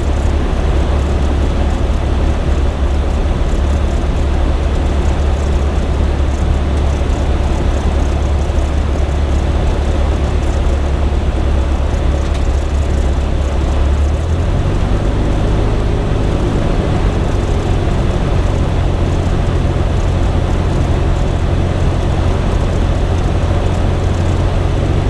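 Cessna 172M's four-cylinder Lycoming O-320 engine and propeller running steadily, a loud continuous drone. About 14 seconds in, the engine note steps up to a higher pitch, a change in power setting.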